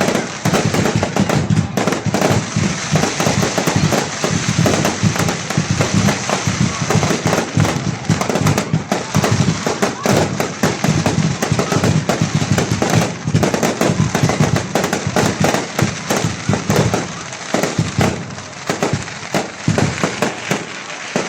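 Fireworks going off in a dense, continuous crackle of many sharp cracks and pops.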